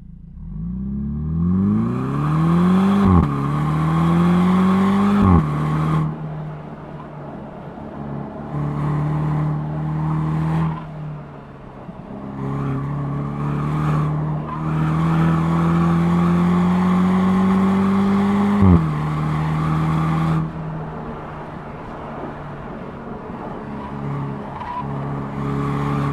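Mercedes-Benz SLC 200's turbocharged four-cylinder engine and exhaust accelerating hard, pitch rising and dropping at two quick upshifts in the first five or six seconds, then easing to a steady cruise. It pulls again in a long rising run that ends in another upshift about two-thirds of the way through, then settles to a quieter cruise near the end.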